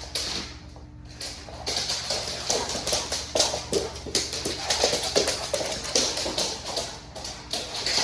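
A dog's claws clicking and scrabbling quickly and irregularly on the floor as it runs about with the zoomies, starting after a quieter second or so.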